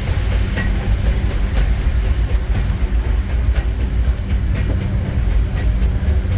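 A narrow-gauge steam train's passenger coach running along the track, heard from on board: a steady low rumble with faint wheel clicks over the rail joints.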